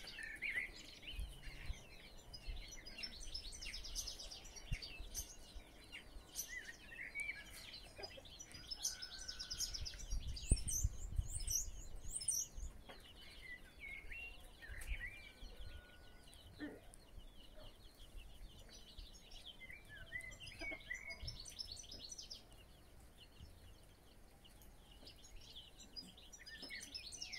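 Songbirds singing, with bursts of rapid high trills and chirps every few seconds. A low rumble sits under them about ten seconds in.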